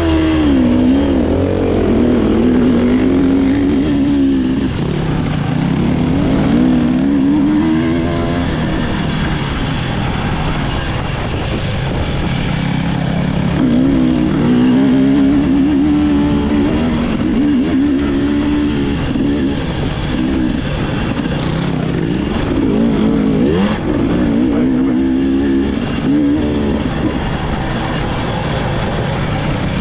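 Dirt bike engine running hard in an enduro motocross race, its pitch rising and falling again and again as the throttle is opened and closed and the gears change.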